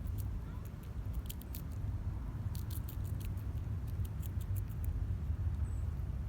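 A squirrel chewing popcorn: small, crisp, irregular clicks and crunches, a few every second, over a steady low rumble.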